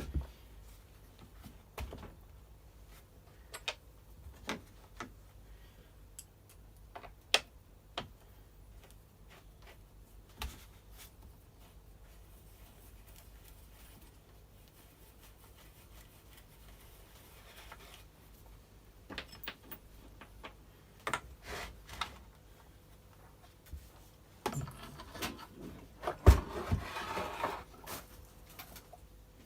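Scattered clicks and knocks of parts being handled and fitted while the starter housing of a Stihl FS240 brush cutter is put back on. Near the end comes a few seconds of rubbing and rattling with one sharp knock.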